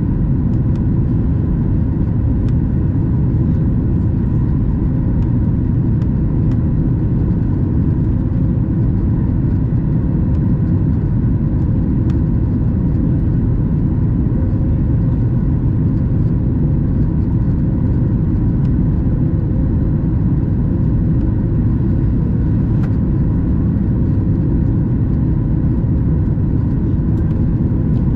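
Steady cabin noise of a Boeing 737 MAX 8 in flight: an even low rush of airflow and engine noise, with a faint steady hum above it.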